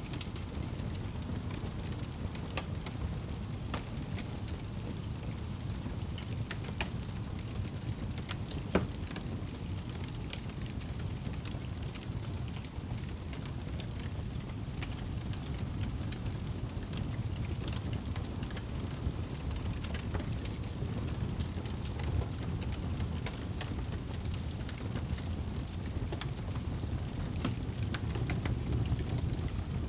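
Wood fire burning in a fireplace: a steady low rumble of the flames with scattered crackles and pops, one sharper pop about nine seconds in.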